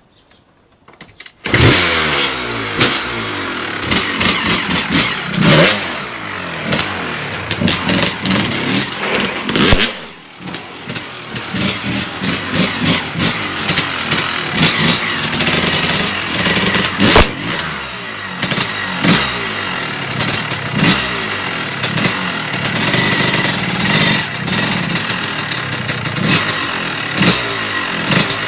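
Sportbike engine running and revving in repeated surges, starting abruptly about a second and a half in, with a brief drop in level around ten seconds in.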